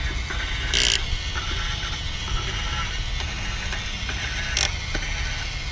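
A hand-trigger spray bottle squirted twice at a toy car's wheel, a short hiss of spray each time, about a second in and again near the end, over a low steady rumble.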